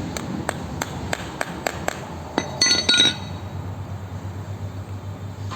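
Light, even hammer taps on metal, about three a second, with a louder ringing metallic clink about two and a half seconds in.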